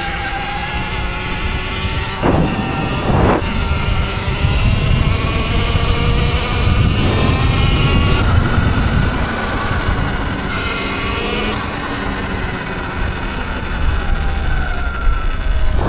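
Electric dirt bike motor whining, its pitch rising and falling as the rider speeds up and slows down, over a heavy low rumble.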